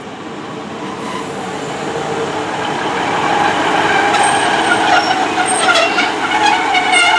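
Class 150 Sprinter diesel multiple unit running at the platform, its engine and wheel noise growing steadily louder, with short high-pitched squeals in the second half.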